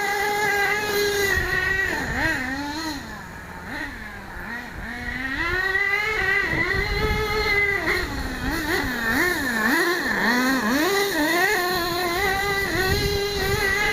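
HPI Savage nitro RC monster truck's glow engine, freshly re-tuned, running at high revs. Its pitch dips and climbs again and again as the throttle is eased off and opened, and the sound fades for a couple of seconds near the start.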